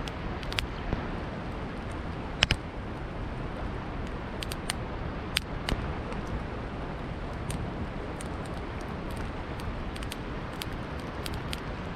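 Wood fire crackling, with irregular sharp pops and snaps, the loudest about two and a half seconds in, over a steady rushing of river water.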